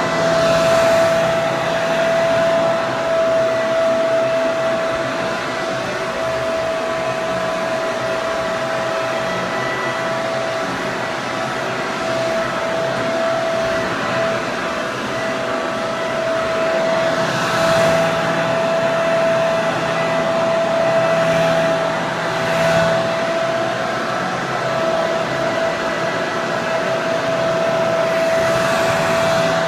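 Hair dryer running steadily, a continuous blowing rush with a steady whine from its motor and fan. The level swells slightly a few times.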